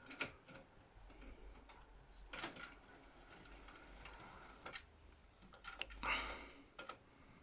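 Faint scattered clicks and light knocks of a Hornby model locomotive being handled and set back onto model railway track, over a faint low hum.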